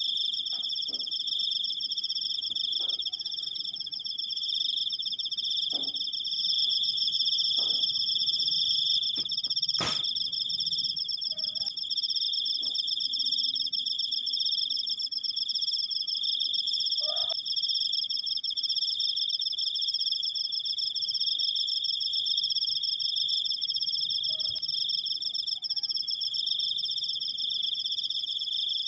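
Crickets trilling in a long, unbroken stream at two steady high pitches. A sharp click sounds about a third of the way in, and a few faint short calls come lower down now and then.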